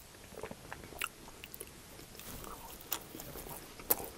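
Close-miked chewing of a mouthful of steak and cheese quesadilla, soft and irregular, with a few sharp, wet mouth clicks, the sharpest near the end.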